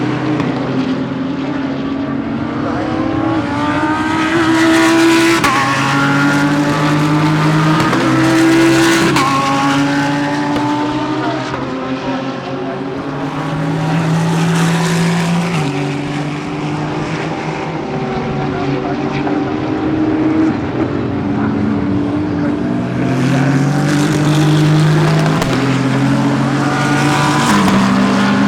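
Several GT3 race cars running together, their engines overlapping, each rising in pitch and stepping down again and again as they accelerate through upshifts.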